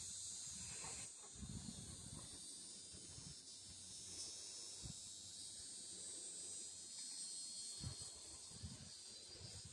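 Steady high-pitched chorus of insects, with a few low thumps and rumbles on the microphone.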